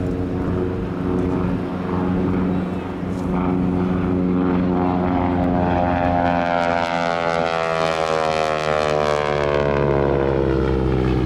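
P-51 Mustang's V-12 piston engine and propeller passing overhead: a steady engine drone, then a louder rasping note from about four seconds in whose pitch falls as the aircraft goes by.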